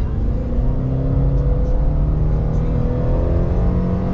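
Scion tC's four-cylinder engine accelerating gently from a standstill, its pitch rising slowly, heard from inside the cabin with music playing over it.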